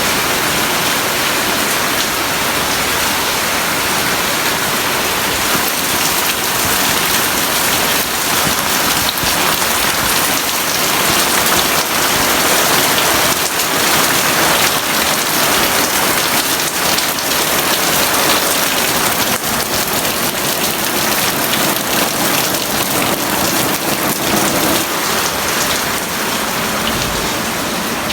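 Heavy rain pouring steadily, a dense continuous hiss that swells slightly midway.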